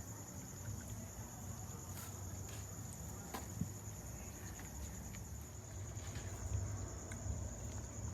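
Insects trilling steadily at a high pitch, with a few faint clicks over a low rumble.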